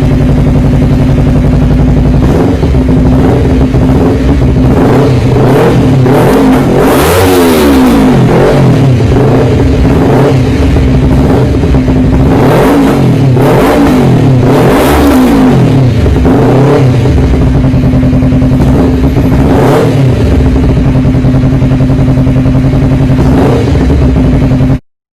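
Honda CBR250RR motorcycle exhaust, loud, with the engine idling and then blipped in repeated short revs that rise and fall from about two seconds in. The sound cuts off suddenly near the end.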